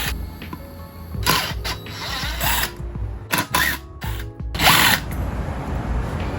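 Short bursts of a hand-held power tool, its pitch rising and falling with each burst.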